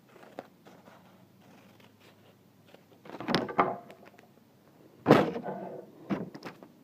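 A sheet of paper being handled and creased flat against a table, with two loud rustling, knocking bursts about three and five seconds in and a few lighter taps after.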